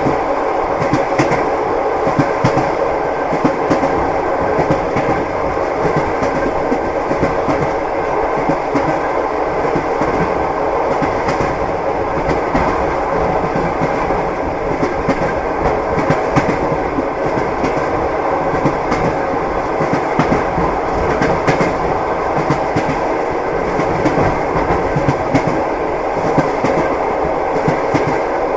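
Passenger train wheels clattering over the rails, heard from inside a compartment car: a steady rumble with a continuous scatter of small clicks and knocks.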